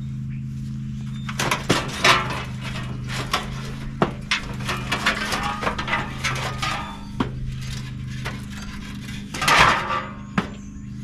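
Metal scrap parts from an air-conditioner condenser clinking and clattering in irregular knocks as they are handled and pulled apart, over a steady low hum.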